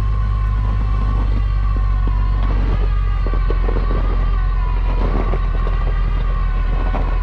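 Vehicle engine running steadily, with a constant high-pitched whine over it that wavers slightly in pitch.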